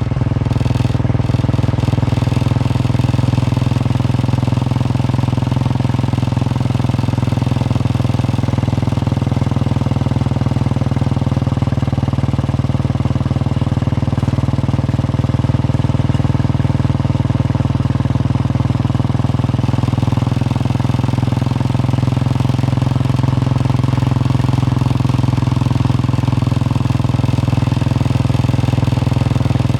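Royal Enfield Bullet 350's single-cylinder engine running at a steady, unchanging speed with its even thump.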